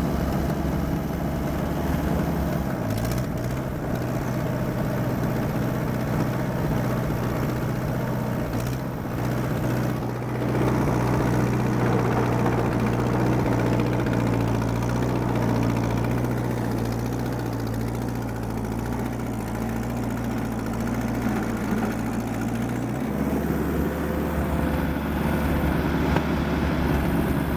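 Allis-Chalmers D14 tractor's four-cylinder engine running steadily under load while dragging a back blade through snow in second gear. The engine note steps up in pitch about three seconds in and drops back near the end.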